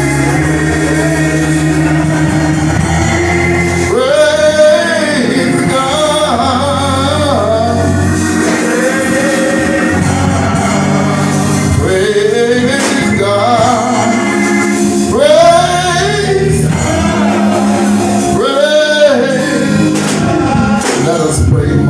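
Gospel song: singing with instrumental accompaniment, the voices rising and falling in long sung phrases over held chords.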